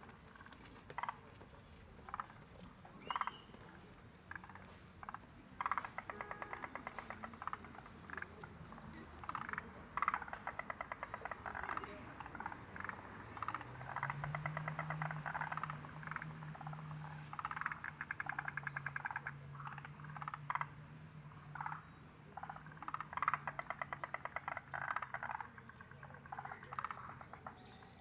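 A chorus of frogs calling in rapid rattling trills, one after another and overlapping. A steady low hum comes in about halfway.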